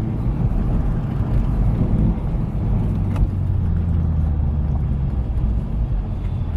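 Car engine and road noise heard from inside a moving car: a steady low drone.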